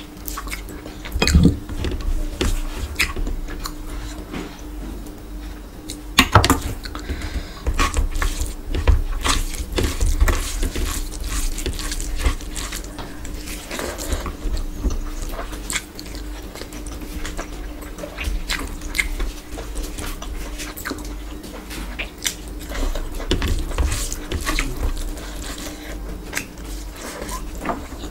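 Close-miked chewing and wet mouth smacks of a person eating rice and meat by hand, with irregular clicks. A faint steady hum lies underneath.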